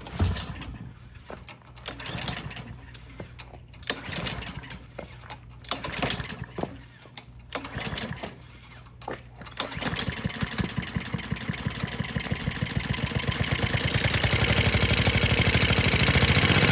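Honda GCP160 overhead-cam single-cylinder mower engine being pull-started, about every two seconds with no catch, then catching about ten seconds in and speeding up to a steady run. The engine has ketchup in its crankcase in place of oil and has just had a shot of starting spray.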